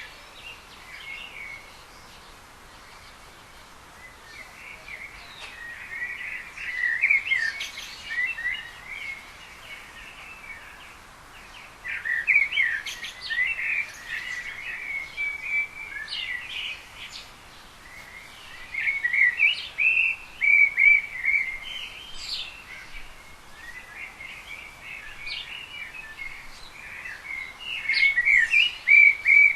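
Small birds chirping and twittering in several bursts of rapid chatter, each lasting a few seconds, over a faint steady background hiss; the loudest bursts come about two-thirds of the way in and near the end.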